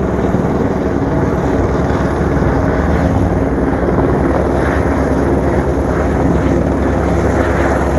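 Helicopter overhead, its rotor blades beating in a fast, steady chop.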